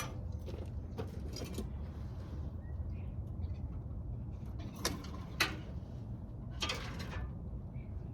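Scrap wire being cut and handled: a few sharp snips and clicks, and a short scrape near the end, over a steady low hum.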